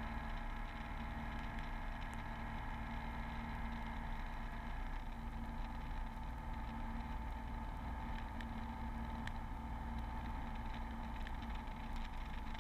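Beechcraft V35 Bonanza's six-cylinder piston engine running at low, steady power, heard inside the cabin as an even drone with a fixed hum.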